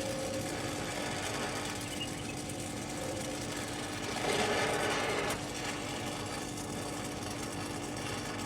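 Small air compressor running steadily with a rapid mechanical chatter and a constant hum, briefly louder about four seconds in.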